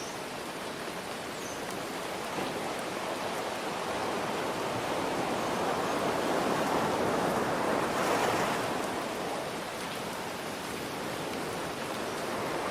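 Steady rain hiss with ocean surf. One wave swells up, breaks about two-thirds of the way in, then recedes.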